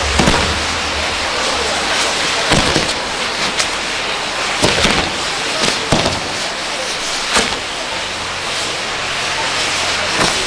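Maltese ground fireworks burning with a steady, loud hiss, broken by sharp pops and cracks roughly every second.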